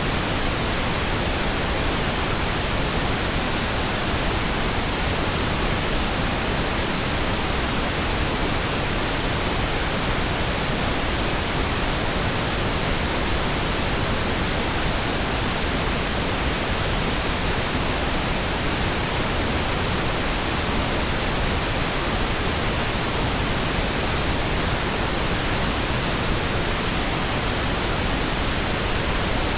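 Steady synthetic pink noise: an even, unchanging hiss spread across all pitches, fuller in the low end than white noise.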